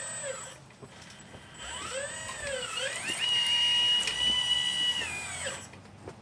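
Electric motor whine of a 1/12 scale RC Liebherr 954 excavator as it is worked. The pitch swings up and down a few times, holds a steady high whine for about two seconds, then winds down near the end.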